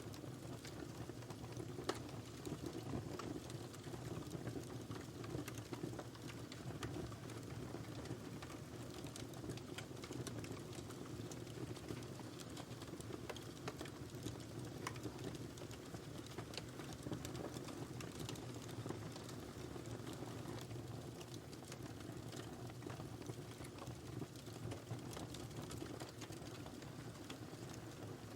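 Wood fire burning in a fireplace: a steady low rumble with many small, irregular crackles and pops.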